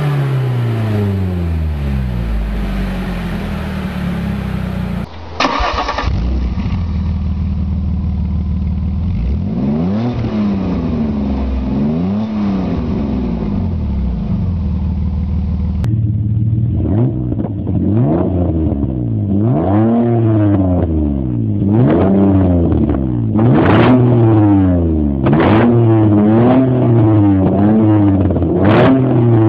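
Car engines revved repeatedly through their exhausts, the pitch rising and falling with each throttle blip. Three different cars' exhaust tests are cut together, changing about five seconds in and again about sixteen seconds in, and the revs come quicker and closer together in the last one.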